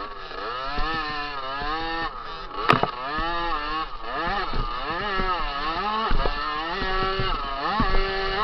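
Two-stroke 50 cc motocross bike engine revving hard, its pitch rising and falling again and again as the throttle opens and closes. A sharp knock a little under three seconds in, with smaller knocks later.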